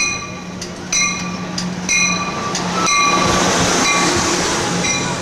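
Passenger train pulling into the platform: a bell rings about once a second over a steady low hum, and a rushing noise of the cars going by swells from about three seconds in.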